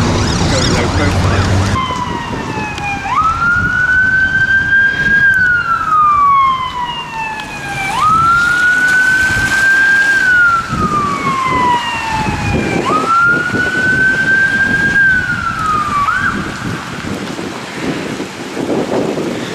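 UK emergency-vehicle siren sounding a slow wail: three cycles, each a quick rise followed by a long slow fall lasting about five seconds, then it stops. Rushing wind or road noise comes before the siren starts and again after it ends.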